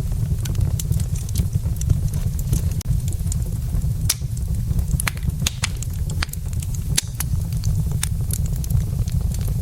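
Wood fire burning in a fireplace, with frequent sharp, irregular crackles and pops from the logs over a steady low rumble.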